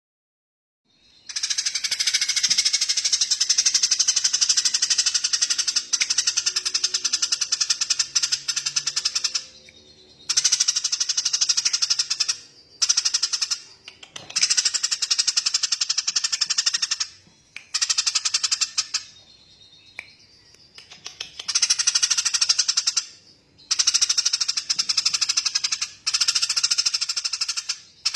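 A small songbird giving long, rapid rattling trills, each run lasting several seconds with short breaks between them, starting about a second in.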